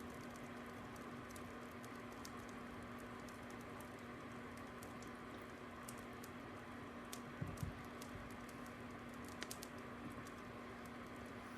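Crackling fire: a steady hiss with scattered small, irregular crackles and pops over a faint steady hum. A couple of louder pops come about seven and a half and nine and a half seconds in.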